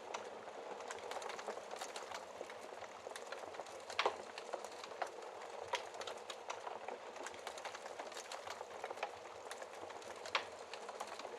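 Wood fire burning with a steady hiss and frequent sharp crackles and pops, the loudest about four seconds in and again near the end.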